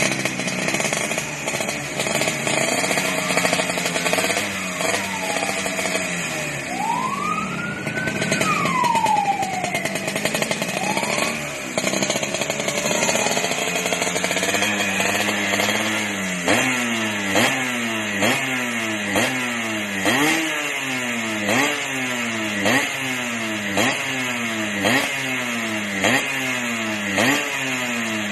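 Two-stroke Vespa with a BMS 212 cylinder kit revving through an aftermarket exhaust with a dry, crisp note likened to a Kawasaki Ninja's. The revs rise and fall freely, with one big climb and drop near the middle, then settle into sharp throttle blips about once a second.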